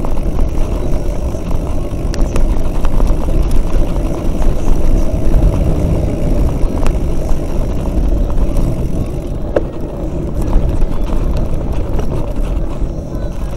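Mountain-bike riding noise: a loud, steady low rumble of wind and knobby tyres over a rough trail on the bike's camera microphone, with scattered small clicks and rattles from the bike.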